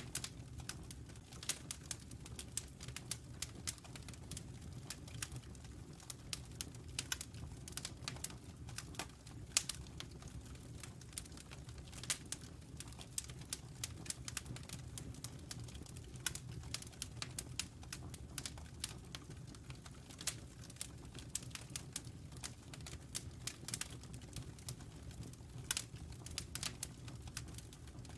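Burning logs crackling in a fireplace: frequent irregular snaps and pops, a few sharper than the rest, over a steady low rumble of the fire.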